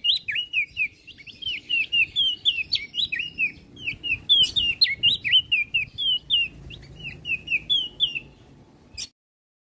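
Prenjak daun songbird singing a fast, continuous string of sharp chirping notes, which cuts off suddenly about nine seconds in.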